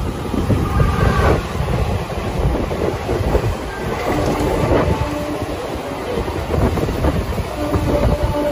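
MEMU electric passenger train running along the line, heard from aboard: a steady rumble of wheels and carriage with the clickety-clack of the rails. A faint on-off tone comes and goes from about halfway through.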